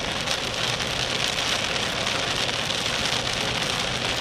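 Steady hiss of rain and wet-road noise heard inside a vehicle moving fast, with a faint steady low hum under it.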